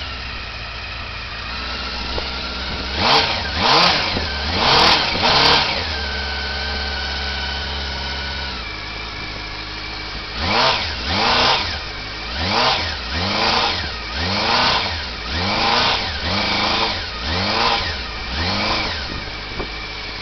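1989 Honda CB-1's inline-four engine breathing through a Triumph Speed Triple silencer, idling and blipped on the throttle: four quick revs a few seconds in, then after a steady stretch about nine short revs roughly one a second, each dropping back to idle.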